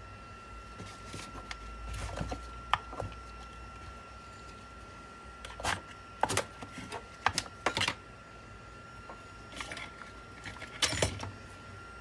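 Sharp clicks and light clatter of computer parts being handled during desktop PC disassembly, in short clusters about two, six to eight, and eleven seconds in, over a faint steady high whine.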